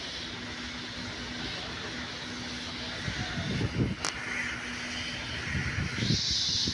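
Locomotive running steadily during shunting, with a sharp knock about four seconds in and a hiss that grows louder near the end.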